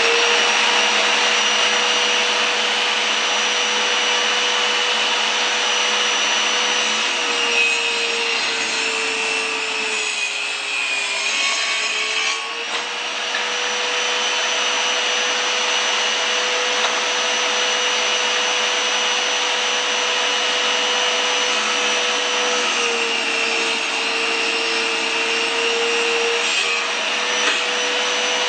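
Electric power tool's high-speed motor running steadily with a high whine. Twice its pitch sags and then recovers, as it slows under load while cutting wood.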